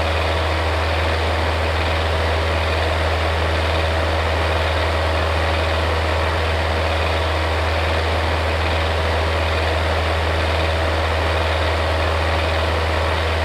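Electric fan running steadily: a strong low motor hum under an even rush of air, with a faint steady tone above the hum.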